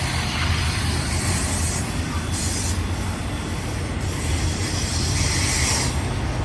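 Freight train rolling past close by: steel wheels rumbling steadily on the rails, with high wheel squeal that comes and goes every second or so.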